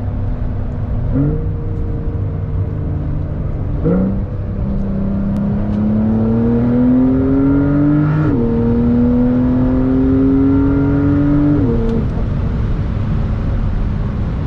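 Porsche 911 Carrera 4 GTS's twin-turbo flat-six pulling hard through the gears. Its note climbs steadily, then drops sharply at each upshift, about eight and again about twelve seconds in, with earlier pitch jumps near the start.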